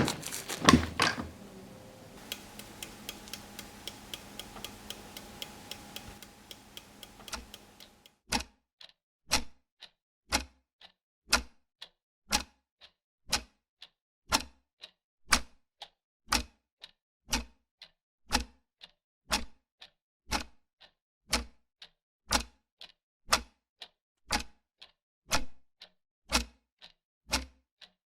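A clock ticking steadily, about one tick a second. There is a single knock about a second in, and a faint hum lies under the ticks until about eight seconds in, after which the ticks stand alone.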